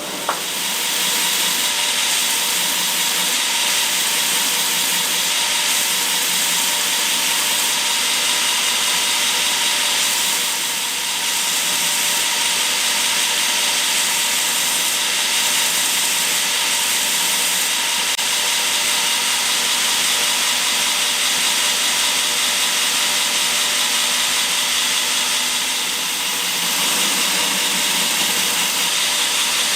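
Belt grinder running on its flat platen, grinding a chamfer into the front of knife handle scales: a steady grinding hiss that comes in with a click at the start and dips briefly twice.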